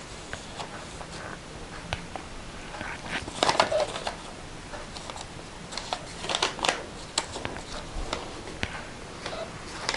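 Paper pages of a handmade junk journal rustling and crinkling as they are turned and handled, with scattered soft crackles and taps, busiest about three and a half seconds in and again around six to seven seconds in.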